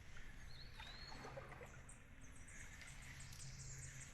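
Faint outdoor ambience of small birds chirping, with one rising whistled note about half a second in, over a steady low hum.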